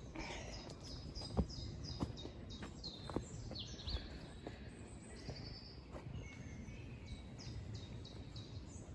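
Small songbirds singing, repeated short high chirps in quick runs, over steady outdoor background noise, with a few soft knocks in the first half.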